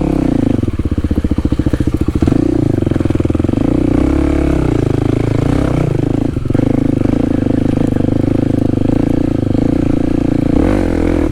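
Kawasaki KLX300 dual-sport motorcycle's single-cylinder four-stroke engine running while riding a trail, its pitch falling and rising with the throttle, with a short dip about six seconds in.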